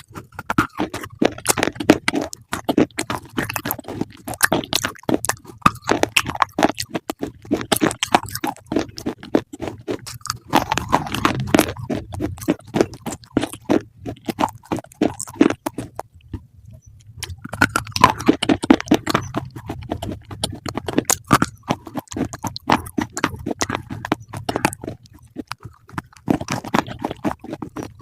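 Close-up crunchy chewing: rapid crisp crunches, with a short pause about two-thirds of the way through.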